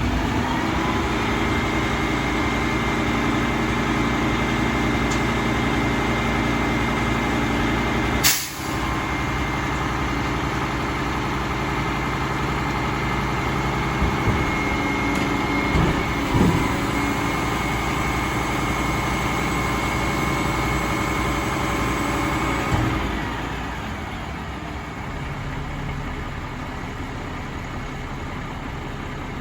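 Mack LR garbage truck's diesel engine running at raised revs with a steady high whine. There is a sharp burst about eight seconds in and a few short clunks around fourteen to seventeen seconds. Near the end it drops back to a quieter idle.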